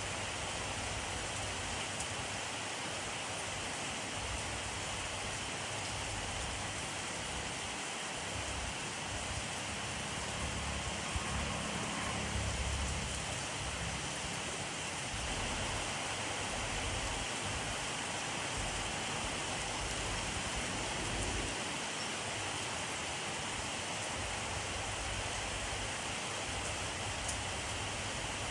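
Steady rainfall, an even hiss of drops on surfaces. A low rumble swells briefly near the middle.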